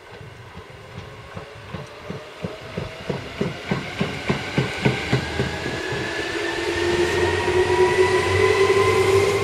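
Electric commuter train accelerating: wheels clacking over rail joints in a slightly quickening rhythm, under a motor whine that rises steadily in pitch and grows louder.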